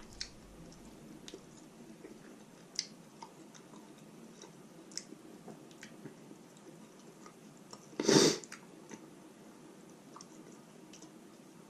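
Close-miked chewing of roast chicken: scattered soft wet mouth clicks and smacks, with one louder, short, noisy burst about eight seconds in.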